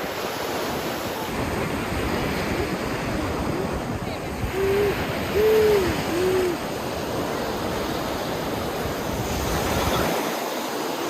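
Ocean surf with wind buffeting the microphone, the low rumble easing off near the end. Midway come three short hoot-like tones, each rising and falling, about a second apart.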